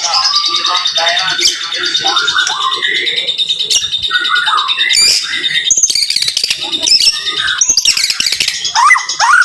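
White-rumped shama (murai batu) singing a dense, rapid-fire song: a fast high rattle runs under a string of short, varied whistles and chatters, with a burst of quick rising whistles near the end.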